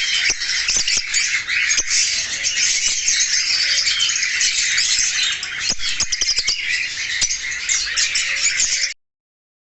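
A group of small caged parrots (pale fallow and opaline mutations) chattering and squawking together in a dense, unbroken mix of high calls. It cuts off suddenly near the end.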